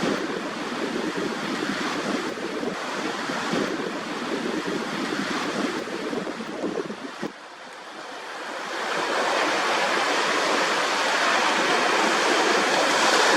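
Small waves lapping and washing on the shore a few feet from the microphone, with some wind on the microphone. The wash eases briefly about seven seconds in, then builds louder from about eight seconds in.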